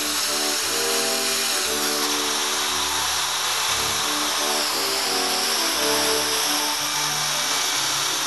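Power tool running steadily under load, its high whine dipping in pitch twice as the work bites, with background music over it.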